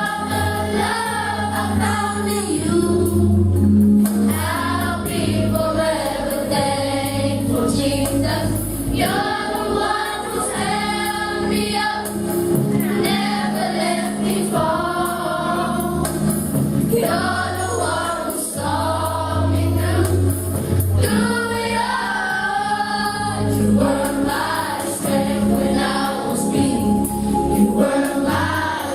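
Church choir singing a gospel song over instrumental backing, with sustained bass notes underneath.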